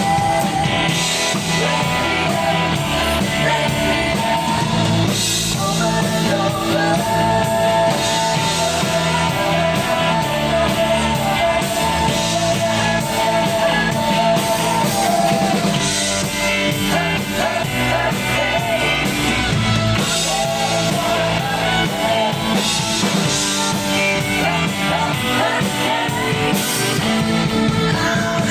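Live rock band playing a song: drum kit and guitars with a voice singing over them.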